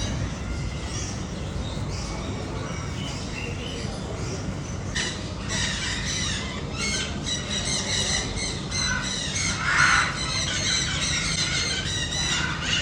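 A crowd of caged pet birds squawking and chattering, many overlapping high calls. It turns busier and louder about five seconds in, over a steady low hum.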